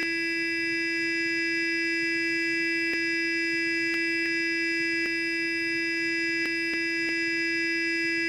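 Sonic electric toothbrush running with a constant, even buzz at a single steady pitch. A few faint clicks sound now and then.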